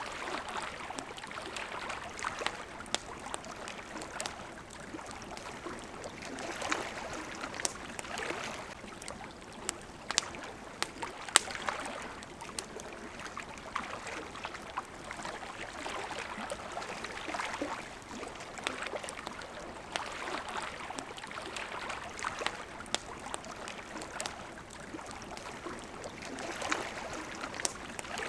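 Wood campfire crackling, with sharp pops and snaps scattered through, the loudest about eleven seconds in. Behind it, small waves lap at the shore in a wash that swells and fades every few seconds.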